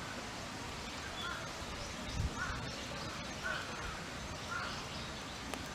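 A crow cawing four times, about a second apart, over a steady background hiss, with a dull low thump about two seconds in.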